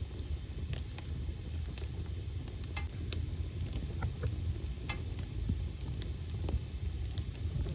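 Wood fire of burning logs in a fireplace: a low steady rumble of the flames with irregular sharp crackles and pops scattered through it.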